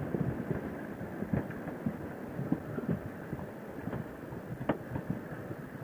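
Muffled rush of wind and motorcycle road noise while riding, broken by irregular soft low thumps.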